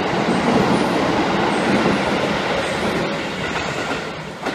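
Electric commuter train running along a station platform, with wheel-on-rail noise under a low motor hum that slowly fades. A short sharp noise comes near the end, after which the sound drops away.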